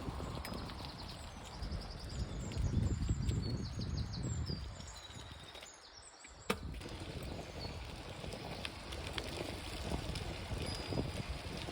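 Wind buffeting the microphone during a bike ride in the countryside, with birds chirping in short high calls and a single sharp click about six and a half seconds in.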